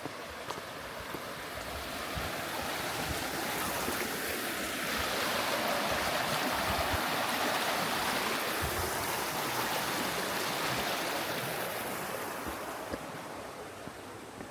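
Rushing stream water, swelling louder over the first half and fading toward the end.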